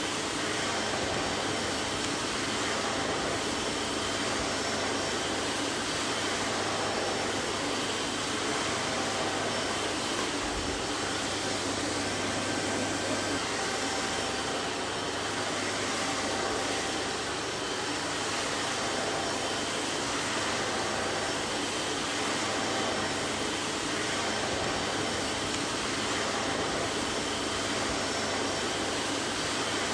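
Vacuum cleaner running steadily, its motor and airflow a constant rushing hiss with a faint steady whine.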